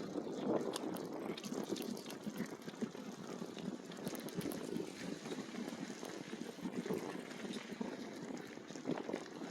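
E-bike tyres rolling over a rough trail surface: a steady crackling rumble peppered with small clicks.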